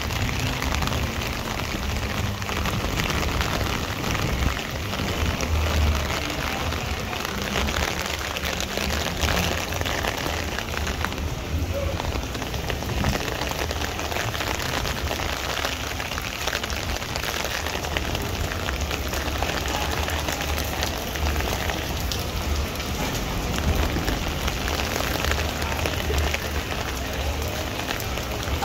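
Steady rain falling on wet pavement, with a low fluttering rumble of wind on the microphone underneath.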